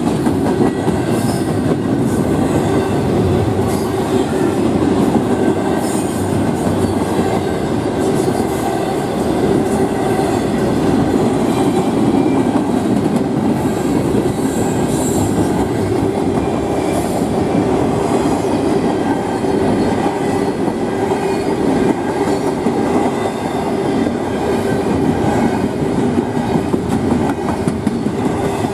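Double-stack intermodal container cars rolling past on the rails: a steady, loud rumble of steel wheels on track with clickety-clack over the rail joints.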